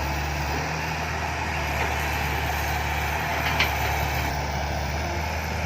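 Six-wheel dump truck's diesel engine running steadily under load as it climbs a sticky wet-clay ramp, a constant low drone.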